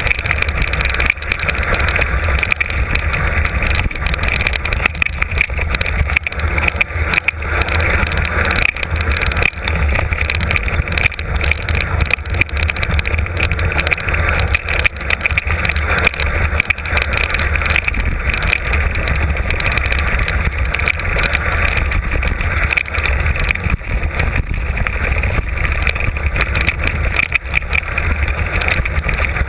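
Mountain bike descending a rough trail, heard from an onboard camera: steady wind noise on the microphone with a constant rattle of short knocks as the bike runs over rough ground.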